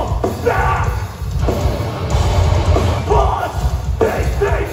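Heavy hardcore band playing live and loud: thick low-end guitars and drums with shouted vocals coming in short bursts.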